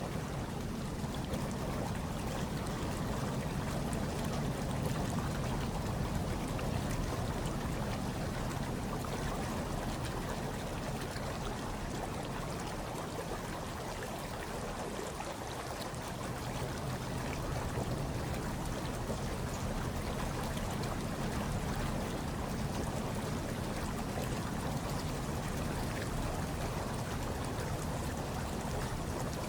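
Hot tub water churning and bubbling steadily, a continuous watery wash with a low rumble underneath.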